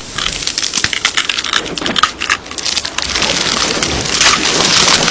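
Crunching and cracking: a quick run of sharp clicks, giving way after about three seconds to a steady rushing hiss.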